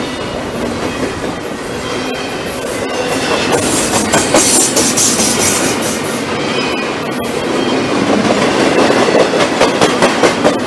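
Freight train cars rolling past close by, steel wheels clacking over the rail joints in a steady rhythm that grows louder toward the end. A brief high wheel squeal comes about four seconds in.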